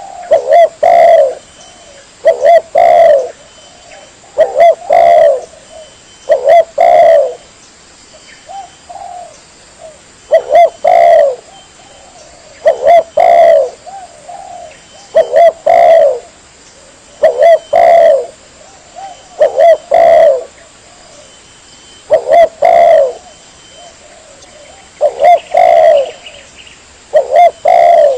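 Spotted dove cooing over and over, its song phrases coming about every two seconds, each a quick cluster of low coos. This is a lure call for trapping or attracting tekukur doves.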